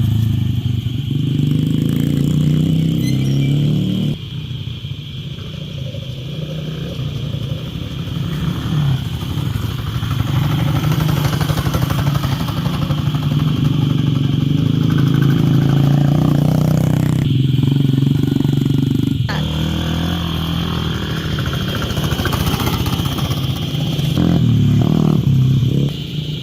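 A small motor vehicle's engine running steadily, its pitch and level shifting a few times as it is driven.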